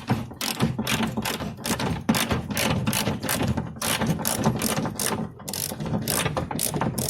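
Hand ratchet clicking steadily, about three to four clicks a second, as it is worked back and forth to back out the screws or bolts.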